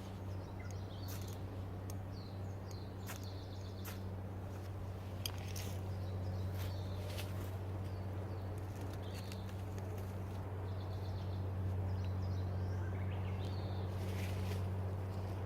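Small birds chirping in short, repeated calls over a steady low hum, with a few scattered sharp clicks.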